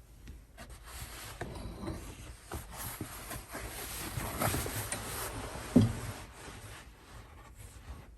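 Rubbing and scraping against a hard surface, with scattered light knocks and one louder thump a little before six seconds in.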